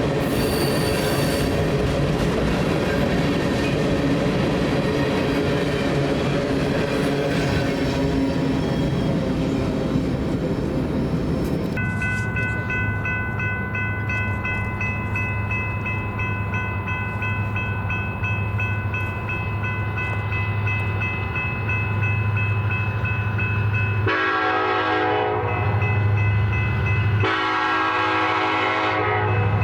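A BNSF freight train rolling past with dense wheel and rail noise, giving way after about twelve seconds to a steady low diesel locomotive drone. Near the end the locomotive horn sounds two long blasts.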